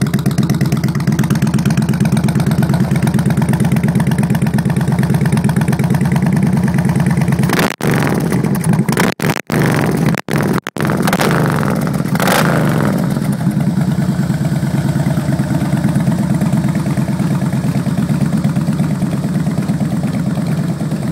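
Harley-Davidson FLTR's air-cooled V-twin running through a loud Thunderheader 2-into-1 exhaust, idling with an even, heavy pulse. Around the middle the sound cuts out briefly several times, and about twelve seconds in the throttle is blipped, a quick rise and fall in revs, before it settles back to idle.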